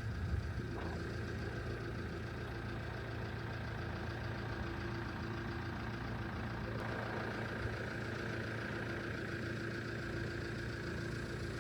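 Motorhome engine running steadily, an even drone with a faint constant hum and no changes.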